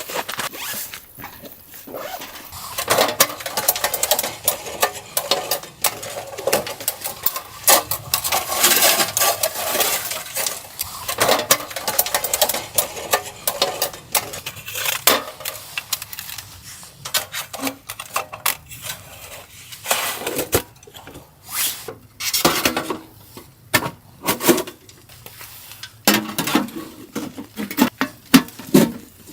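Metal gear being handled: irregular clinks, knocks and clatter.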